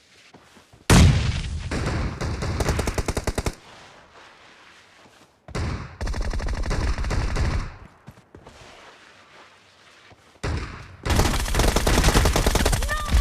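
Automatic gunfire in a shooter video game: three long bursts of rapid fire, the first starting about a second in, the second about halfway, the last near the end.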